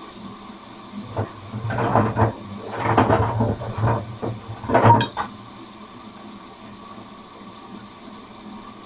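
Atlant front-loading washing machine running with a steady hum, while paint rollers and brushes clatter and knock against the tumbling drum for about four seconds in the middle.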